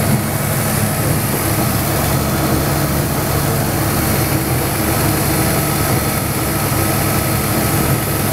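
Chevrolet Opala engines, a four-cylinder and a six-cylinder, idling together steadily while warming up.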